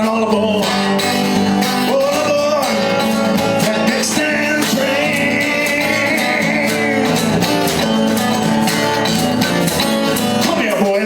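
Acoustic guitar strummed in a steady rhythm, with wordless singing over it.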